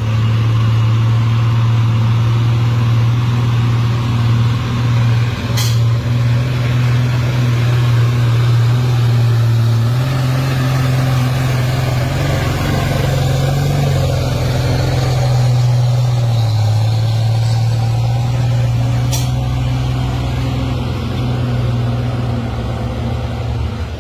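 Truck engine running steadily, a loud low drone that steps up and down in pitch a few times as the engine speed changes, with two sharp clicks, about six and nineteen seconds in.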